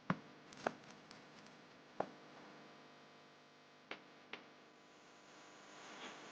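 About five sharp clicks and taps of small hard objects, irregularly spaced, with a few fainter ticks between them, over a faint steady hum.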